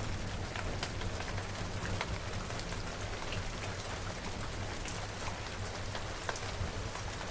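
Steady rain falling on a hard surface, with many individual drops ticking through it and a steady low rumble underneath.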